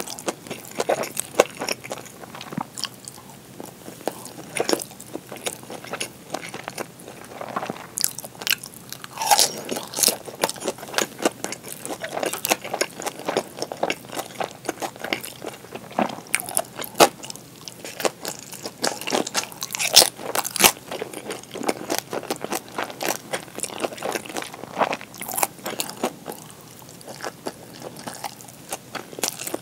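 Close-miked eating: biting and wet, crunchy chewing of kimchi and pan-fried gyoza, a steady run of sharp little crackles and smacks.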